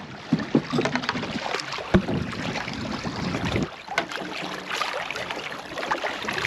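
Knocks and clatter on a small boat, with wind and water noise; one heavy thump about two seconds in, followed by a low rumble for a second or so.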